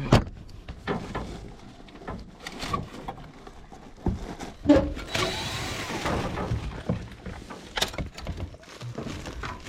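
Scattered knocks and thuds of tools and parts being handled during an evaporator coil and ductwork installation. A louder knock comes right at the start, and there is a stretch of scraping or rustling noise about five to six and a half seconds in.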